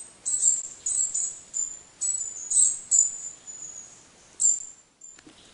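Small birds chirping: a quick run of high, thin calls, each falling slightly in pitch, following one another about twice a second.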